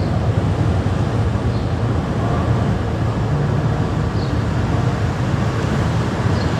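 Steady road noise from a car being driven: a continuous low rumble of tyres and engine, without a break.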